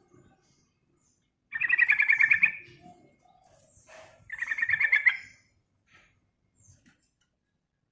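Sooty-headed bulbul (trucukan) giving two rapid chattering trills, each about a second long and about two seconds apart.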